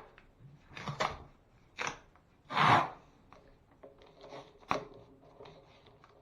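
Three short rasping strokes of a hand tool on drywall, about a second apart, followed by softer clicks and taps.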